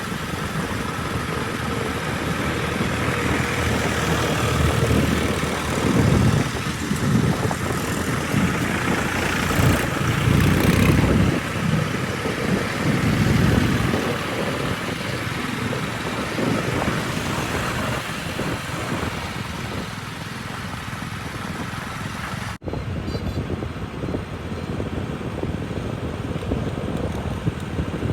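Heavy diesel machinery, a backhoe loader working at a mud-loading site, running continuously with louder surges between about 4 and 14 seconds. The sound briefly cuts out about 22 seconds in, then the engine noise carries on.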